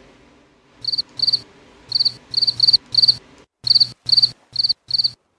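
Cricket chirping: about eleven short, high chirps at uneven intervals.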